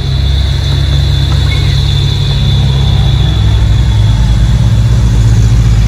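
Steady low rumble of an idling engine with a fast even pulse, growing a little louder about halfway through, with a faint steady high whine above it.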